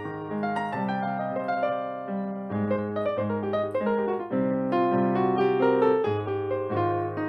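Piano playing a flowing passage of melody and chords over bass notes.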